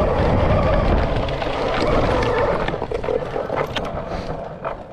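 Rawrr Mantis electric dirt bike riding over dirt: a steady motor whine over tyre crunch and wind rumble, growing quieter toward the end.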